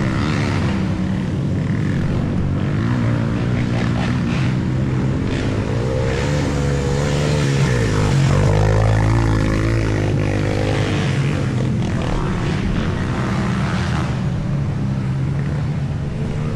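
Sport quad (ATV) engine running steadily, its pitch dipping and then climbing again about halfway through as the throttle changes.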